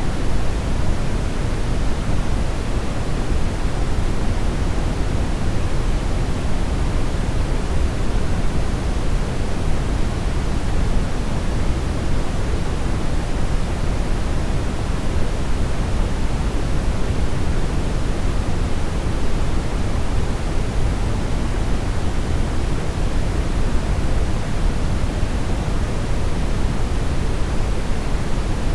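Steady brown noise: an even, unchanging hiss with most of its weight in the low end, like a deep rumble.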